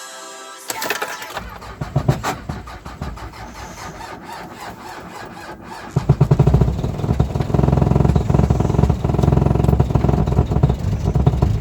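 Starter cranking the cold Mitsubishi Pajero's 2.5-litre four-cylinder diesel at −22 °C in a fast, even rhythm. About six seconds in, it turns much louder and heavier as the engine starts to fire, close to catching but not yet running on its own.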